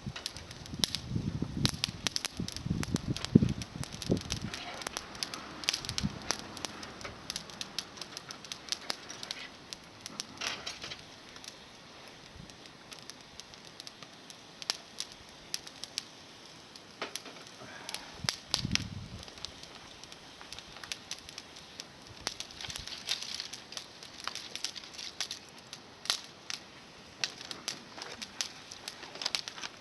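Small wood fire of climbing-rose twigs crackling, with sharp irregular pops throughout and a few dull low thumps in the first few seconds and again a little past the middle.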